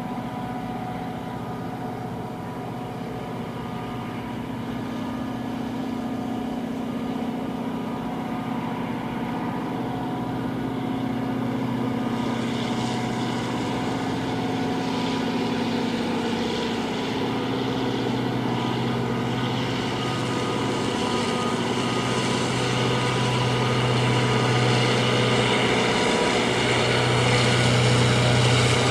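A train drawing closer and getting slowly louder: a steady motor hum with several held tones, joined about twelve seconds in by rising hiss and rumble that grows to the end.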